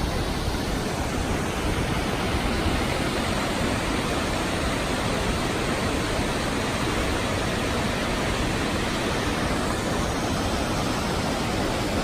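Steady rush of water from the Krka River's cascading travertine waterfalls, an unbroken even noise.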